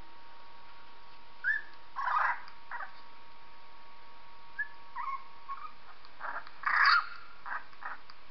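High-pitched squeaks and whimpering cries of a three-week-old puppy, heard as a string of short calls with the loudest about two seconds in and near seven seconds in, over a faint steady hum.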